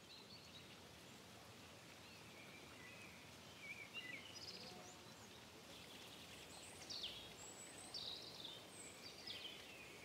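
Faint outdoor ambience with scattered short bird calls, high chirps and whistles, some sliding in pitch.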